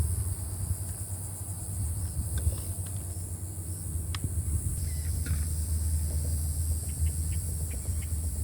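Wind buffeting the microphone as a steady, fluctuating low rumble, with a constant high hiss over it and a few short, faint chirps and ticks in the middle and near the end.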